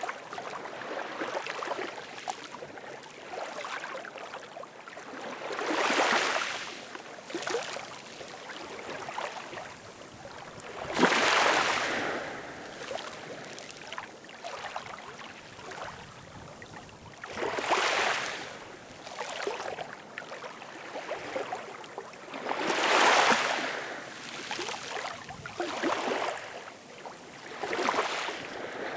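Ocean waves breaking and washing in, each surge swelling and fading about every five to six seconds over a constant hiss of moving water.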